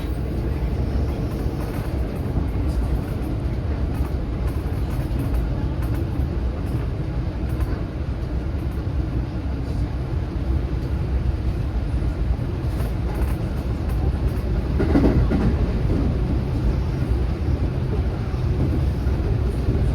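A JR 227-series electric multiple unit running, heard from inside the front car: a steady rumble of wheels on rails. It swells briefly and grows louder about 15 seconds in.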